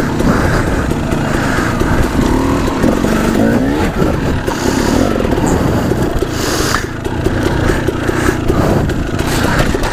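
Dirt bike engine running under riding, its pitch rising and falling repeatedly as the throttle is opened and closed.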